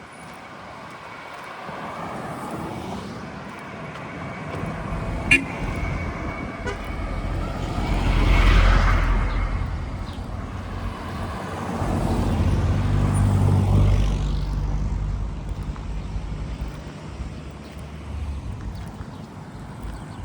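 Road traffic passing on a city street: one vehicle swells past a third of the way in, then another with a steady low engine note passes in the middle and fades away. A single short, sharp sound, perhaps a horn tap, comes about five seconds in.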